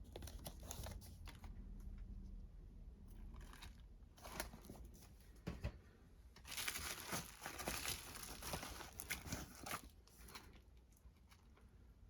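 Packaging being unwrapped by hand: irregular crinkling and tearing, busiest for a few seconds past the middle.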